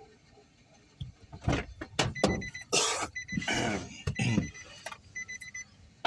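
Short runs of rapid electronic beeping, a steady high tone repeated three times, under people talking.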